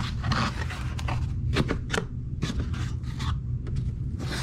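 Drone packaging being unpacked by hand: a cardboard box and its contents rustling and scraping, with a string of sharp clicks and taps, over a steady low hum.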